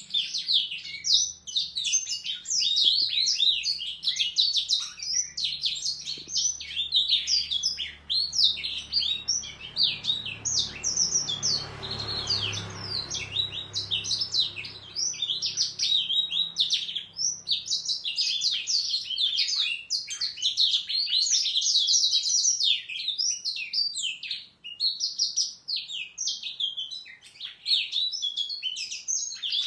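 A domestic canary and a young black-throated canary singing together, a dense, fast run of chirps and trills with hardly a pause.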